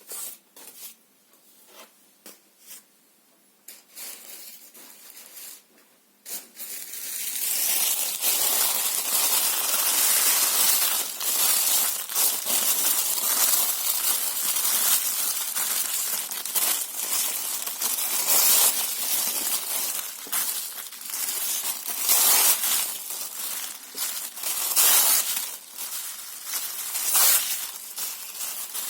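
Paper being torn and crumpled: a few faint, scattered rustles for the first six seconds or so, then continuous crackling tearing and crushing to the end.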